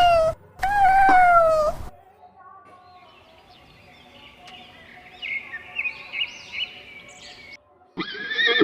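A domestic cat meowing twice in long, drawn-out meows that fall in pitch at the end. A quieter stretch with high chirping calls follows, and near the end a louder, harsh animal call begins.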